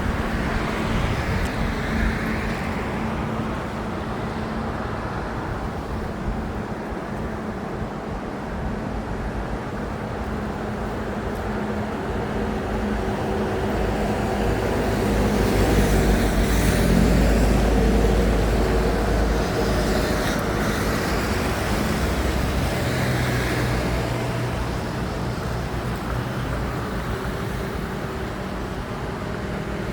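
Excavator's diesel engine running steadily, louder and deeper for a few seconds around the middle as it works harder.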